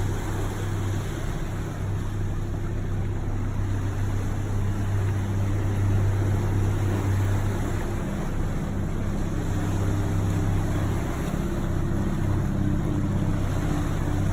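An engine running steadily, a low droning hum that stays at much the same pitch throughout.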